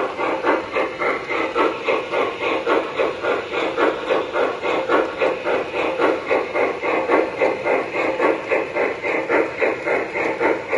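Recorded steam-locomotive chuffing from the onboard sound systems of MTH Premier O-gauge steam locomotives, an even, steady rhythm of about two to three chuffs a second.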